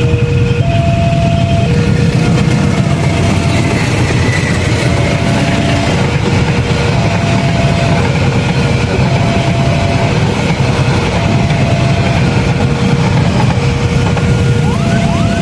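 Passenger train hauled by a CC 203 diesel-electric locomotive passing a level crossing, with a loud, steady rumble of wheels on rail. Over it, the crossing's electronic warning alarm sounds two alternating tones, about one a second.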